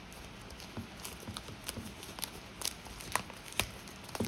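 Plastic shrink wrap being torn and peeled off a small product box by hand: a run of irregular sharp crackles and snaps.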